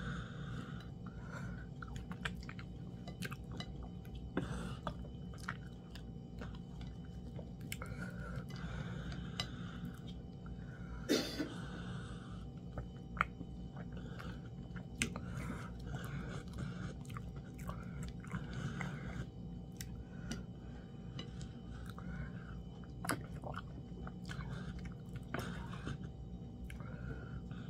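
Close-miked chewing and wet mouth sounds of a person eating fufu with soup by hand, with many small lip smacks and clicks. One louder mouth noise comes about eleven seconds in.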